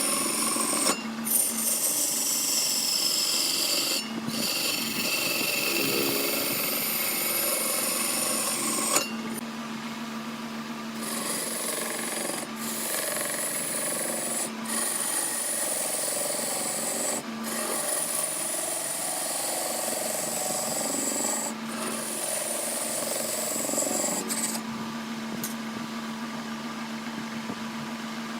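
Wood lathe running while a cutting tool scrapes and rubs against the spinning wood over a steady motor hum, with the sound changing abruptly a few times.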